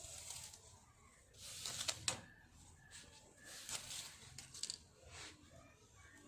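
Hands working through oiled long hair during lice picking: short rustles of hair being parted and drawn through the fingers, with a couple of sharp clicks about two seconds in.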